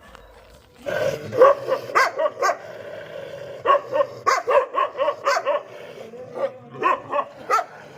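A dog barking in runs of quick, short barks, about three or four a second with brief pauses between runs, starting about a second in.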